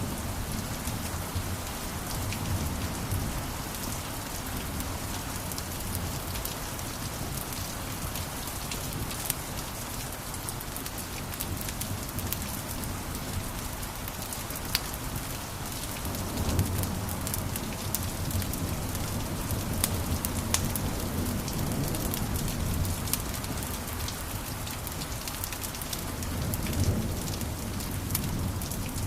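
Wood fire in a fireplace crackling, with frequent sharp snaps and pops over a low, rushing rumble of the flames that swells a few times.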